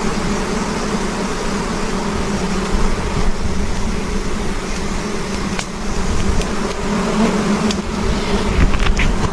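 A swarm of wild giant honeybees buzzing in a steady, droning hum, over a low rumble. A few sharp clicks come near the end.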